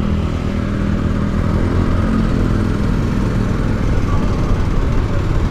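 Motorcycle engine running steadily while riding, heard from the bike, with a continuous low rush of road noise.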